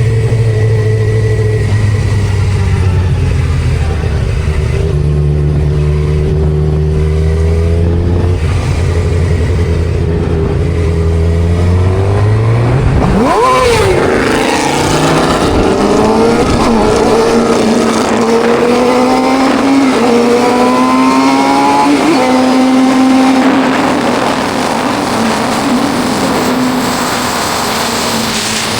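Suzuki GSX-R600 inline-four motorcycle engine on the move: it holds a steady drone, then about halfway through revs up sharply and falls back, and climbs steadily in pitch under acceleration with a gear change near the end of the climb. For the last few seconds wind rush covers the engine.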